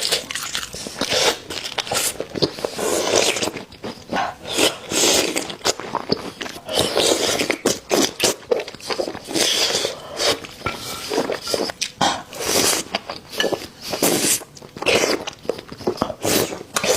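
Close-miked eating: irregular crunching bites and chewing, in uneven bursts.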